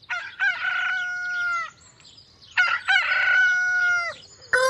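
Rooster crowing cock-a-doodle-doo twice, each crow ending in a long held note, with a third crow starting near the end.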